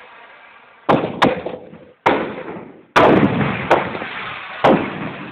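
Fireworks going off: six loud bangs at uneven intervals, each trailing off with echo.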